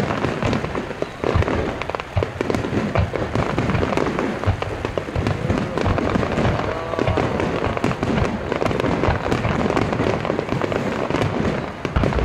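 Aerial fireworks bursting in quick succession: a dense, unbroken run of bangs and crackle.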